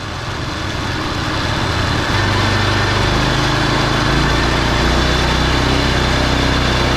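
Wood chipper's new 10.2-horsepower single small gasoline engine running smoothly, freshly mounted in place of a worn-out 8 hp Briggs and Stratton. It grows louder over the first two seconds, then holds a steady, even running note.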